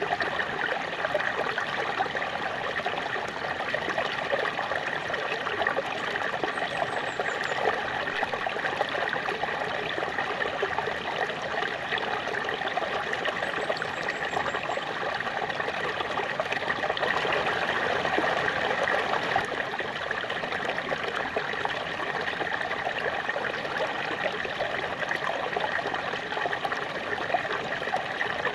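Small waterfall: water splashing and running steadily in an even, unbroken rush.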